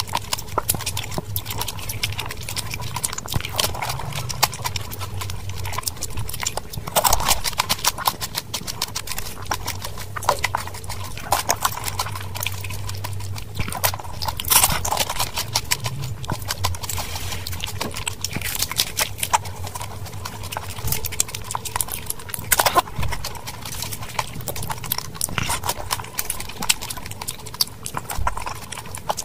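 Close-miked mouth sounds of eating pani puri: crisp puri shells crunching and the filled shells being chewed, a dense run of fine clicks with a louder crunch every few seconds.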